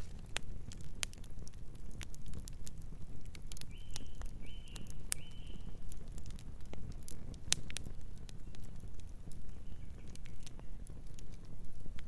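Wood fire burning with a low rumble of flames and irregular sharp crackles and pops from the burning wood. About four seconds in, a distant bird gives three short high notes.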